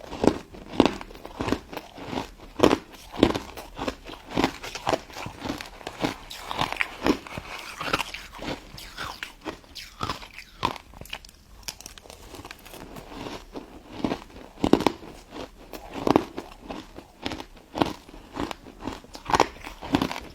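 A person biting and chewing crunchy crystal snow ice dessert: a long run of sharp, irregular crunches, about one or two a second, with softer chewing between them.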